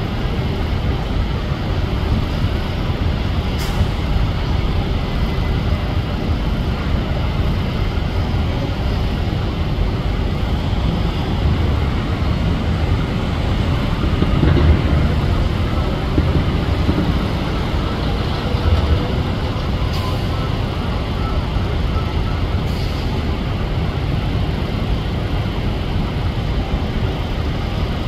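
Steady, loud rumble of jet airliner engines, swelling briefly about halfway through.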